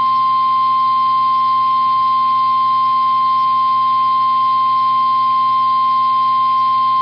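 Emergency alert warning tone: a single steady, loud beep near 1 kHz, the 1050 Hz warning alarm tone of weather radio, announcing a flash flood warning. A faint radio hum lies under it.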